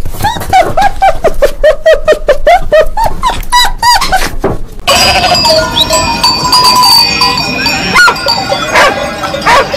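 A dog barking in a quick run of short, high barks for about the first five seconds, then music with a sheep bleating once about eight seconds in.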